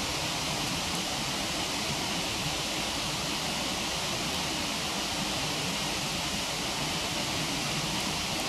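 Steady rush of a waterfall, with a couple of faint pops from a wood campfire about a second in and near the end.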